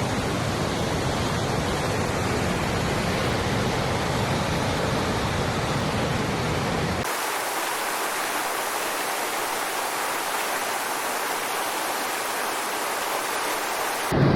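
Rushing floodwater, a steady full rush of noise. About halfway through it cuts abruptly to a thinner, hissier rush with the deep part gone.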